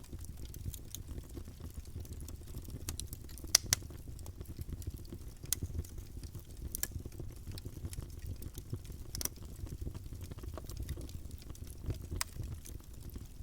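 Campfire burning: wood crackling with frequent irregular sharp pops over a low steady rumble, one louder pop about three and a half seconds in.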